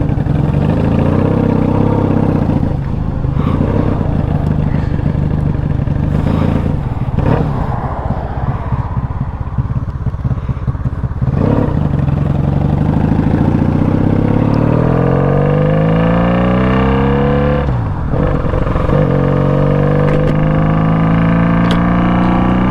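1996 Honda Magna 750's V4 engine, a loud bike, running at low speed, then accelerating with rising revs, shifting gear about eighteen seconds in, and pulling up through the revs again.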